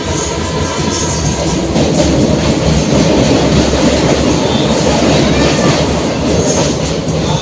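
DEMU (diesel-electric multiple unit) passenger train running along the line, a loud steady rumble of the wheels and running gear heard from on board.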